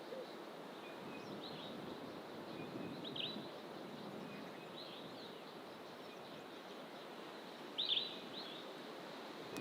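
Wild birds in fynbos bush giving short, high chirping calls every second or two, the loudest pair about eight seconds in, over the steady rush of distant ocean surf.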